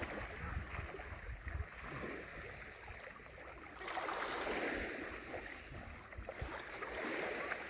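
Shallow water washing and lapping around a paddleboard, swelling for a second or two about four seconds in, with a low rumble of wind on the microphone.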